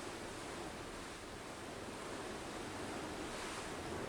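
Heavy thunderstorm downpour driven by strong gusting wind, a steady rushing noise that swells slightly near the end.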